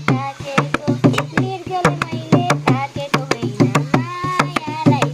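Nepali folk song: a madal hand drum beating a quick, steady rhythm under a singing voice.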